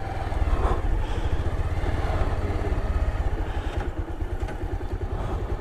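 Motorcycle engine running at low revs with a steady, fast low pulsing beat.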